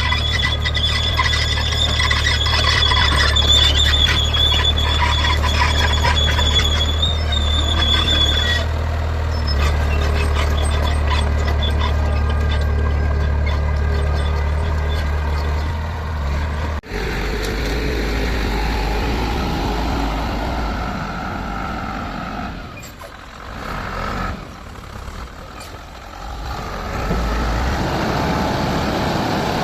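Heavy diesel machine running steadily, with a high-pitched squeal held over the engine for the first eight seconds or so. About seventeen seconds in the sound cuts abruptly to another stretch of engine noise, which drops away briefly and then returns.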